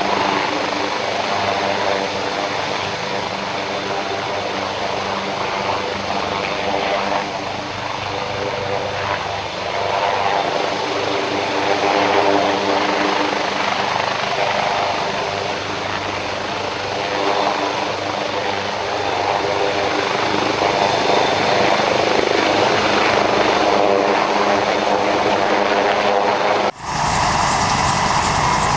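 Helicopter in flight, its rotor and engine running steadily with slow swells and fades as it maneuvers. Near the end the sound breaks off abruptly and resumes with a different tone, as at an edit.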